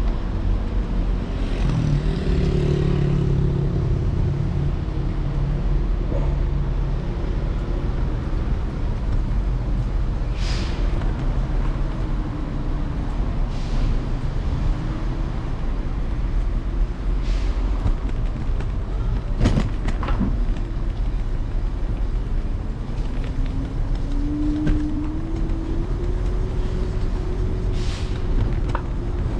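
Electric scooter riding along city streets: heavy wind and road rumble on the handlebar-mounted microphone, with the scooter motor's whine rising and falling in pitch as it speeds up and slows, climbing steadily near the end. Traffic noise around, and a few sharp knocks.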